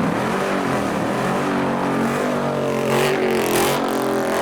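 Dodge Challenger's engine revving hard as it pulls away, held high with its pitch rising slightly, and a rush of noise about three seconds in.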